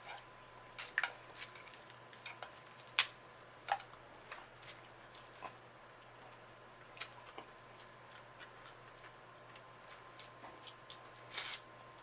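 Snow crab legs being cracked and picked apart by hand and eaten: scattered short, sharp cracks and clicks at irregular intervals, the loudest about three seconds in and again near the end.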